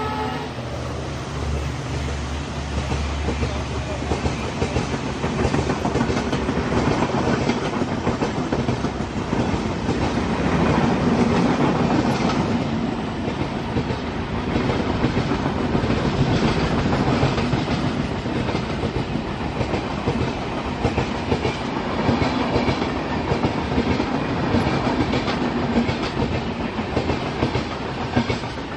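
LHB passenger coaches of an express train passing at high speed: a dense, rapid clatter of wheels over rail joints with rushing air, swelling and easing as the coaches go by. The horn's last note cuts off right at the start.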